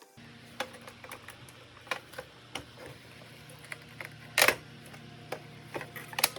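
Irregular sharp clicks and knocks of plastic parts being handled, with one louder knock about four seconds in, over a steady low electrical hum that starts just after the beginning.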